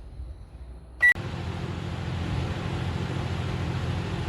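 A microwave oven: a click and a short beep about a second in, then the oven running with a steady low hum.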